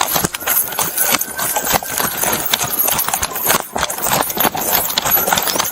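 Quick irregular knocking and rustling: footsteps and gear jolting against a body-worn camera as an officer runs toward a crashed motorcyclist. It stops suddenly near the end.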